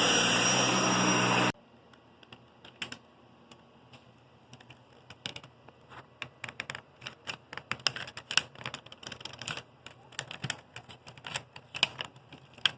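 Vacuum cleaner running, then switched off about a second and a half in. A run of irregular light clicks and taps follows.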